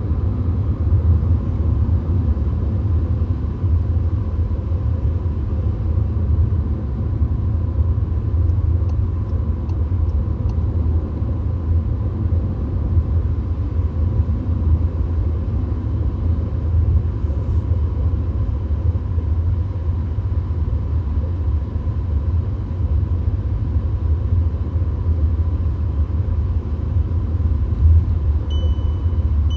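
Steady low rumble of a VW Golf cruising on the motorway, heard from inside the cabin: road, tyre and engine noise with a faint steady whine. Near the end there are a few short, high electronic beeps.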